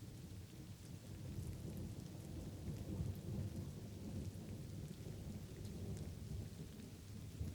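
Light rain falling, with a long low thunder rumble that swells about a second in and eases off near the end. Scattered drop ticks can be heard over the rain's hiss.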